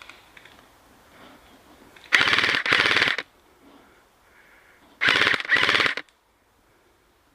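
Airsoft gun firing four short full-auto bursts in two pairs, the first pair about two seconds in and the second about five seconds in, each burst about half a second of rapid shots.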